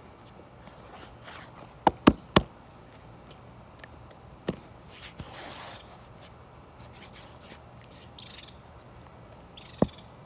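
A few sharp knocks or clicks: three in quick succession about two seconds in, one more a couple of seconds later and another near the end, over a low background with faint chirps.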